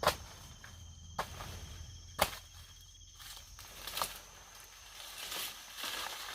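A few sharp clicks or snaps, roughly a second apart, over a faint steady high-pitched insect trill.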